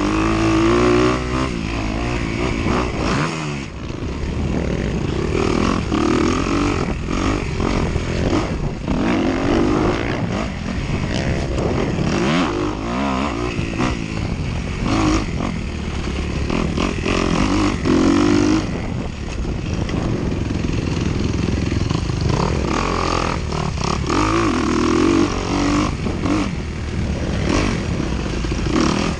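Dirt bike engine revving up and down over and over as it is raced off-road, its pitch climbing and dropping every second or two, with a brief dip about three and a half seconds in.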